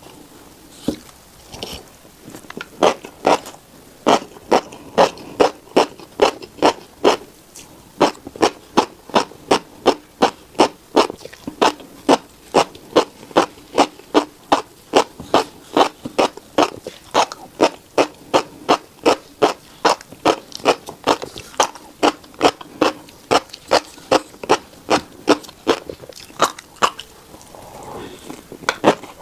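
Close-miked chewing of a mouthful of tiny black seeds, in sharp, even chews about two to three a second that start a couple of seconds in and stop near the end.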